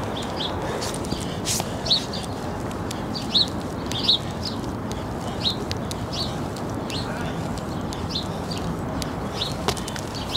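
Small birds chirping in short, repeated calls over a steady background hiss.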